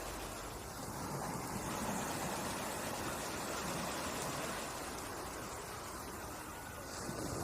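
Ocean surf: a steady rushing hiss of water, easing slightly in the middle and building again near the end as the next wave comes in.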